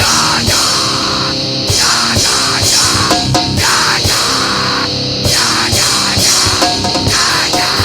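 Grindcore band music: distorted guitars and a drum kit come crashing in at once and play on fast and loud.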